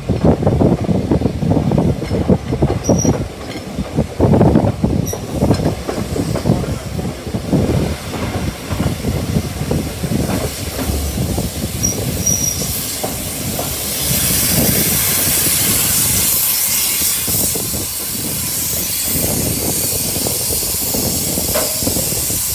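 Heritage railway carriage rolling through a yard, its wheels clattering and knocking over rail joints and points. About two-thirds of the way through, a steady hiss takes over as the low clatter thins and the train runs slowly into the station.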